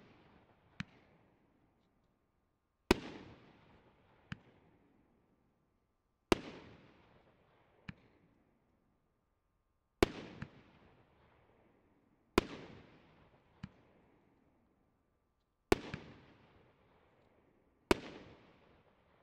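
A 25-shot, 48 mm fireworks cake (Triplex TXB464 'Infinite') firing shell after shell. There are six loud bangs a few seconds apart, each trailing off over a second or so, with a fainter sharp pop between them.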